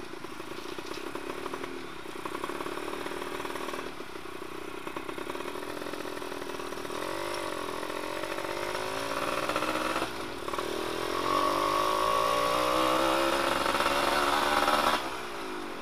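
Suzuki F1ZR two-stroke moped engine running under way through an exhaust with its baffle removed, its pitch rising and falling with the throttle. It dips about ten seconds in, then climbs and is loudest until it drops off sharply near the end.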